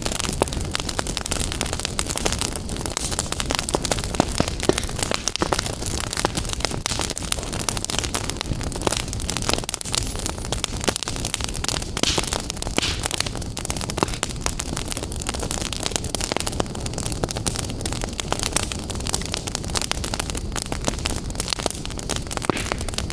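Wood fire burning in a fireplace: a steady hiss of flames with frequent sharp crackles and pops throughout.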